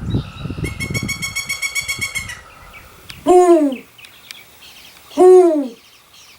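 Bird calls: a fast run of short repeated notes, then two loud calls about two seconds apart, each rising and then falling in pitch.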